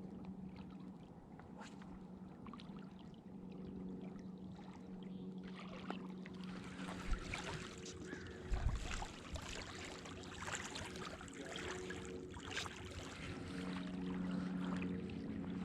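Steady hum of a distant motorboat engine out on the lake, with water lapping and splashing at the shore. There are two low thumps about seven and eight and a half seconds in.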